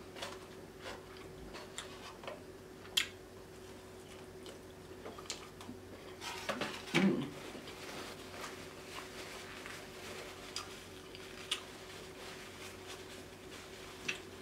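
Close-miked chewing of a sauce-dipped prawn: quiet wet mouth clicks and smacks scattered a few seconds apart, with a louder cluster about seven seconds in, over a faint steady hum.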